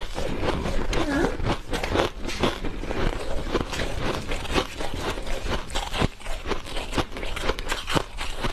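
Close-up chewing of big bites of refrozen powdery ice, a dense run of soft, rapid crunches.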